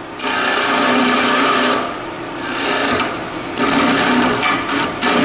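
Carbide 90-degree detailer cutting into the inside of a bowl spinning on a wood lathe: a continuous rasping cut that eases off briefly several times as the tool is drawn back, over a faint steady hum from the lathe.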